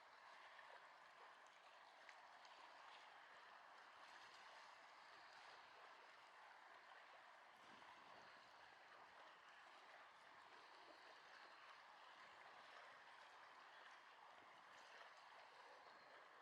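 Faint, steady outdoor ambience: an even wash of noise with a few faint ticks and no sudden events.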